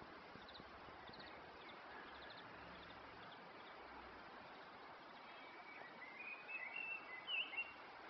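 Faint steady outdoor background noise, with a bird chirping several times in the second half.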